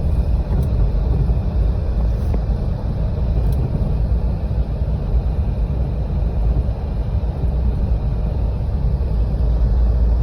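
Steady low rumble of a Jeep driving on snowy roads, heard from inside the cabin: engine and tyre noise.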